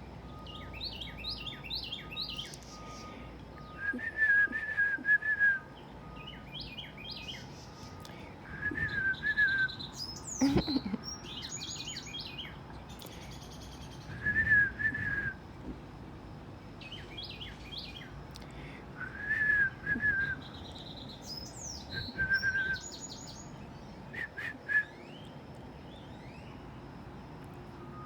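Several small songbirds singing and calling in turns: a short slurred lower phrase recurs every few seconds, answered by higher, quick chirpy phrases. A single sharp knock about ten and a half seconds in.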